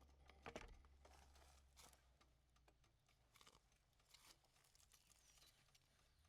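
Near silence: a faint low hum with a few faint scattered ticks and rustles.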